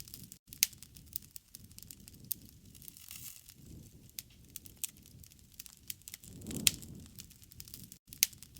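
Wood campfire crackling, with irregular sharp pops and snaps over a low rush of the flames that swells about six and a half seconds in.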